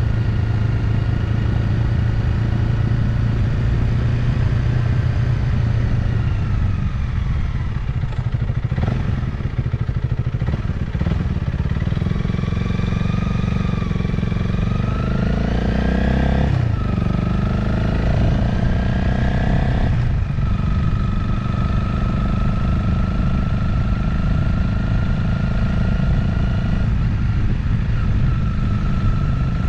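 Motorcycle engine running while riding: its pitch sags about six seconds in, climbs again from around twelve seconds, drops sharply just past the middle, rises once more, and then holds steady for the rest.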